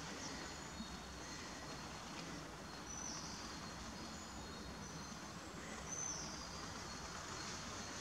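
Quiet ambience: a steady faint hiss with a few faint, high, short chirps from small birds, each note dropping at its end.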